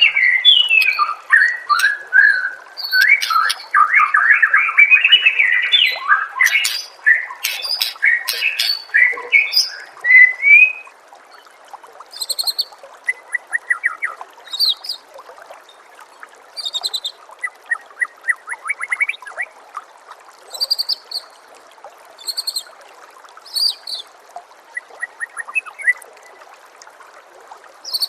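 White-rumped shama singing a loud, fast, varied song of gliding whistles for about the first ten seconds, then only short, high, scattered chirps, over a steady trickle of water.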